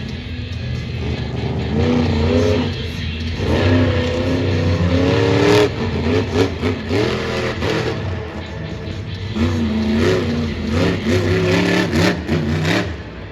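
Monster truck's supercharged, alcohol-burning engine revving hard in repeated bursts, pitch swooping up and down, with a sharp bang about halfway through and more near the end.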